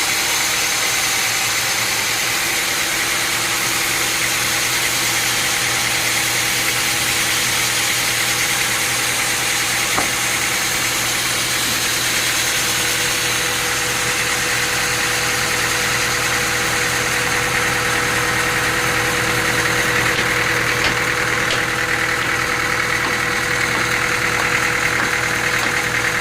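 Sawmill machinery running steadily: a constant mechanical hum with several held tones, and a higher whine that grows stronger about twenty seconds in.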